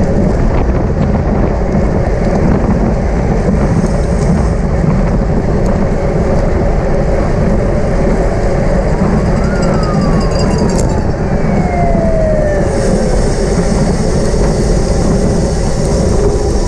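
Steady, loud wind rumble on the microphone of a moving bicycle in a criterium race. About halfway through, a thin tone falls in pitch over a few seconds.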